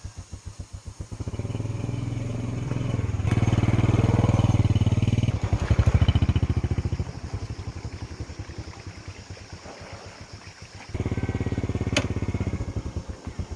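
Small engine running with a steady chug. It is throttled up about a second in, runs loudest for a few seconds, eases back, and revs up again briefly near the end, with a sharp click in that last burst.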